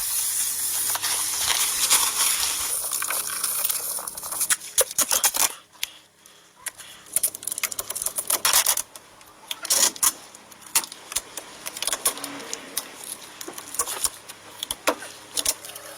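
Aerosol can of silicone remover spraying in a steady hiss for about five seconds, then a run of scattered small metallic clicks and clinks.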